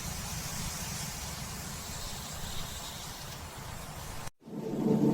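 Steady wind noise that cuts off suddenly a little over four seconds in. Right after, a deep, gong-like ringing tone starts to swell.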